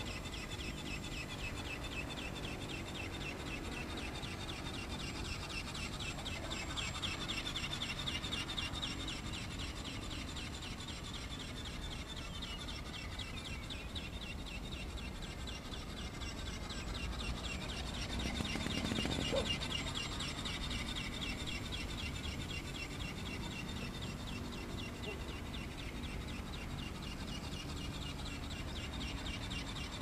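Birds chirping and calling steadily, a dense high chatter, over a low steady outdoor rumble.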